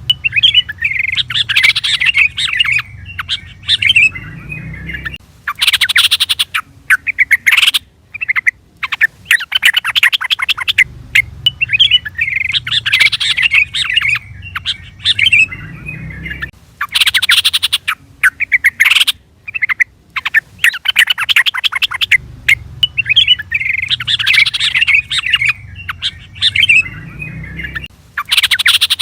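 Yellow-vented bulbul (trucukan) calling: loud, bubbly chattering phrases broken by quick harsh rattles. The same sequence repeats about every 11 seconds, as a looped call recording.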